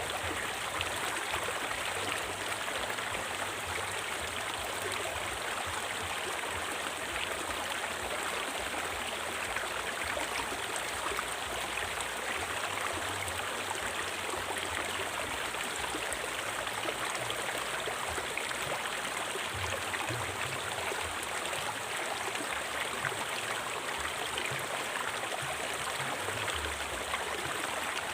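River water flowing over rocks, a steady unbroken rush.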